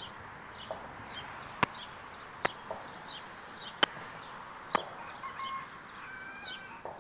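Backyard chickens clucking, with four sharp clicks in the middle.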